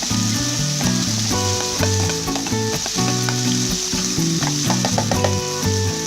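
Rat meat sizzling in hot oil as it is stir-fried in a pan, with scattered clicks of the utensil against the pan. Background music with a stepping low line plays underneath.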